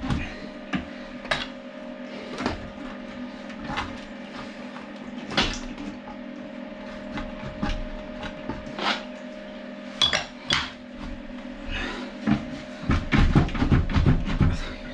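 Scattered clinks and knocks of hand tools and hard fittings being handled while a toilet pan is worked loose, with a busier run of knocks near the end.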